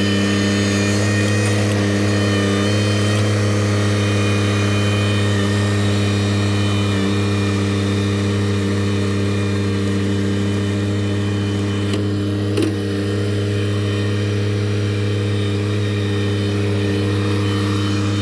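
An engine running at a steady speed, a loud even drone that holds the same pitch throughout, with one brief clank about two-thirds of the way through.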